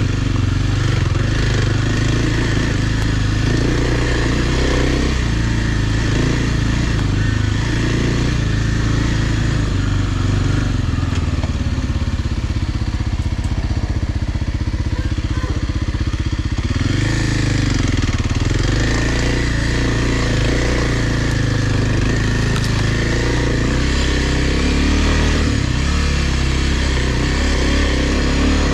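Kawasaki dirt bike engine running under way, its pitch rising and falling with the throttle. It settles lower and steadier for several seconds around the middle, then picks up again.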